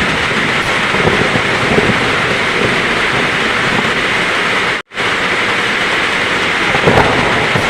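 Heavy rain pouring steadily, a dense hiss of downpour. It cuts out for an instant about five seconds in, then resumes.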